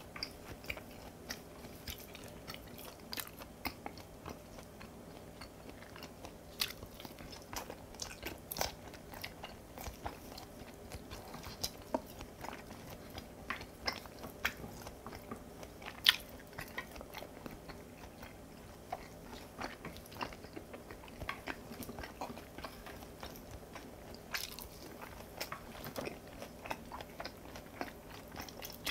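Close-miked chewing of raw beef and kimchi: a steady run of wet mouth clicks and crunches at an irregular pace, with one sharper click about halfway through.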